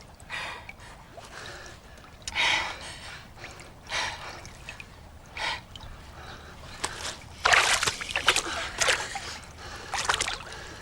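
A person swimming: irregular splashes and sloshes of water, the loudest cluster well into the second half.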